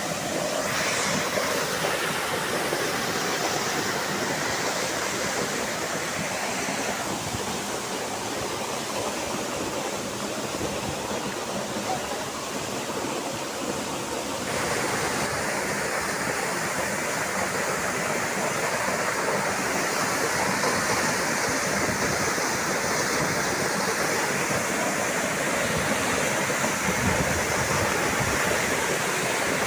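Steady rush of a river's water falling over rocks, its sound shifting and growing a little louder about halfway through.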